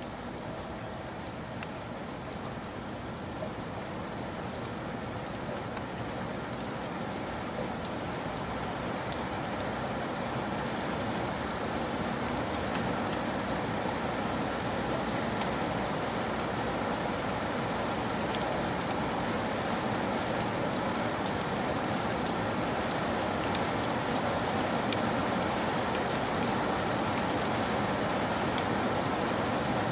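Steady rain falling and pattering on a surface, with many small drop ticks. It grows slowly louder over the stretch.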